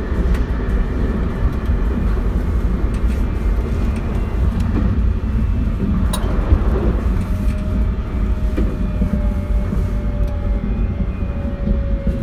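JR West 271 series electric train running: a steady rumble of wheels on rail, with a faint motor whine that slowly drops in pitch over the second half. A sharp click comes about six seconds in.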